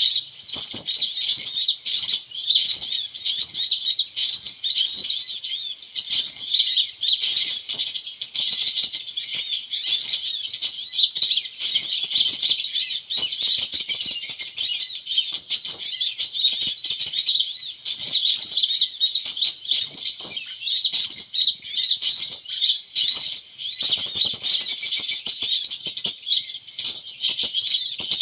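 Small birds twittering without a break: a dense stream of quick, high-pitched chirps, several a second.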